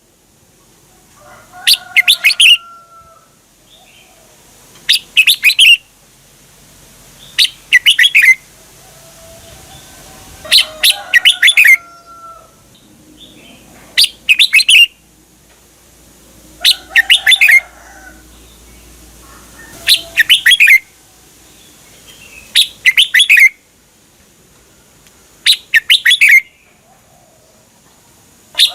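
Red-whiskered bulbul singing its short, quick phrases of several clear notes, repeated about every three seconds. This is the doubled 'berl' song style played to caged bulbuls to teach or excite them.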